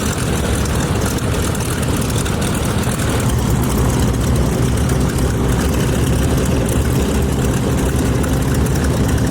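Twin Pratt & Whitney R-985 Wasp Junior radial engines of a 1938 Lockheed 12A Electra Junior running at low power with propellers turning as the plane taxis. The engine note is loud and steady throughout.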